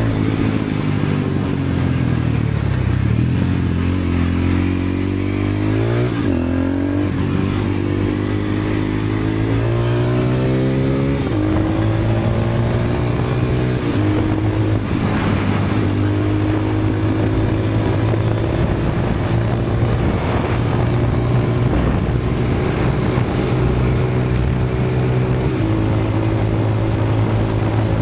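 KTM LC4 640 single-cylinder four-stroke motorcycle engine running through twin GPR exhausts with the dB killers removed, so the exhaust is unbaffled and loud. It is revved up and down a few times in the first ten seconds or so, then settles to a steady run.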